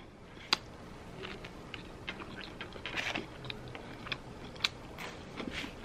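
Chewing a crispy fried chicken sandwich: soft, scattered crunches and mouth sounds, with a couple of sharper clicks.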